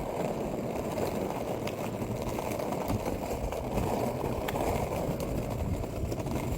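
Penny-style plastic skateboard rolling steadily over pavement, its wheels giving a continuous rumbling noise with light ticks over the surface, mixed with wind buffeting the microphone.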